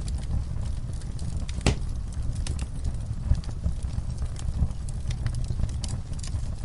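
Fire burning in a fireplace: a steady low rumble with frequent small crackles and pops, one sharper pop standing out about a second and a half in.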